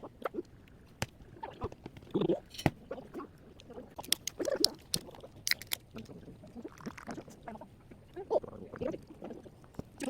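Scattered light clicks and taps of chopsticks and tableware at a meal table, with faint murmured voices now and then.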